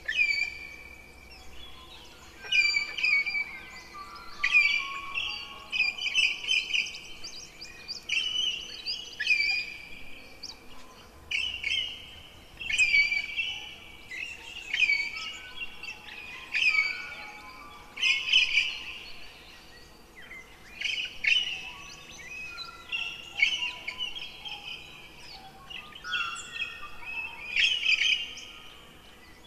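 A songbird singing: short, loud phrases of sharp, high notes and sustained trills, one every second or two.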